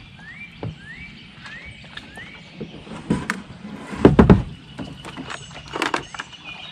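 A bird repeats short rising whistled notes, about two a second, for the first couple of seconds over a faint steady chorus of other birds. Then come a few knocks of a kayak paddle shifted against the kayak, loudest in a quick cluster about four seconds in.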